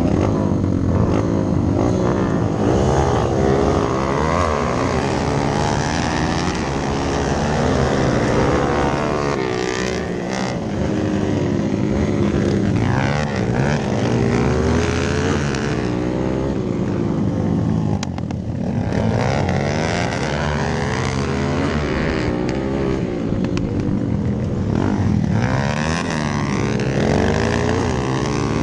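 Hero Impulse dirt bike's single-cylinder engine ridden hard, its pitch climbing and dropping again and again as it revs up through the gears and shifts, with wind noise on the microphone.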